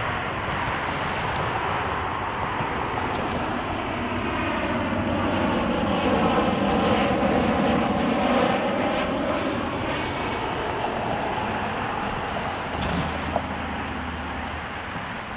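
Jet engines of a landing Boeing 737-700 passing by on approach, a steady rushing roar that swells to its loudest about halfway through with a sweeping whoosh, then slowly fades.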